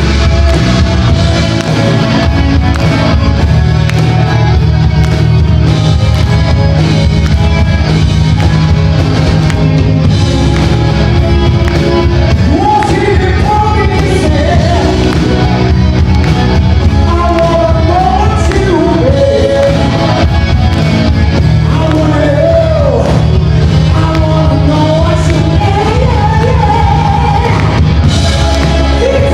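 Live band playing loud rock-style music. A lead voice sings the melody over it from about twelve seconds in.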